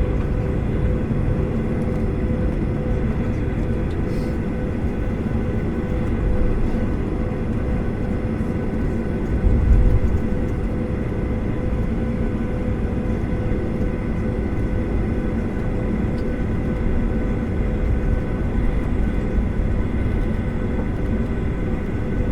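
Boeing 737-800's CFM56 jet engines heard from inside the cabin, a steady hum with several fixed whining tones over a rushing noise, as the airliner taxis or begins its takeoff. A brief low thump about ten seconds in.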